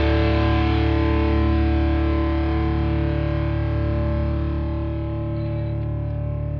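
Music: a sustained, distorted electric guitar chord ringing out with effects and slowly fading.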